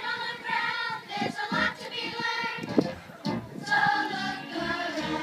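Several voices singing together like a choir, over music.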